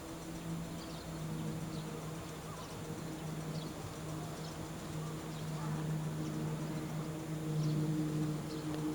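A train's machinery humming steadily at a low pitch, growing slightly louder in the second half, with faint scattered high clicks over it.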